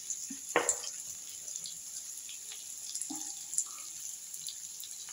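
Onions and capsicum frying in oil in a kadai on a low flame, giving a steady sizzle. A single knock, such as the wooden spatula against the pan, sounds about half a second in.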